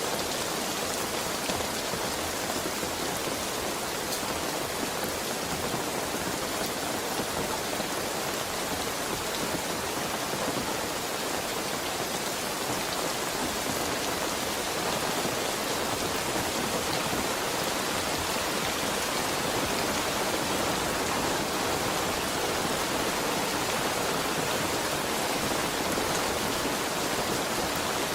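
Heavy rain falling steadily, an even hiss of drops on surfaces with no breaks or thunder.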